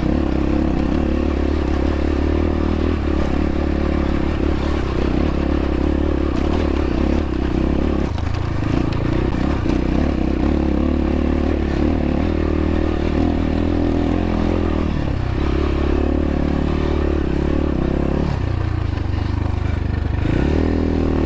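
X-Pro Templar X 250 dirt bike engine running under load on a rocky off-road climb. Its speed changes several times along the way.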